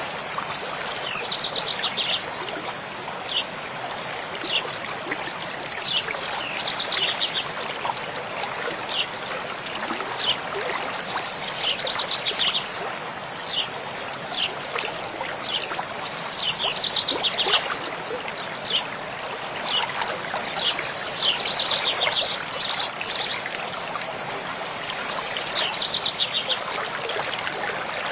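Mountain stream flowing steadily, with a songbird singing a short, rapid trilled phrase about every five seconds and scattered single high chirps in between.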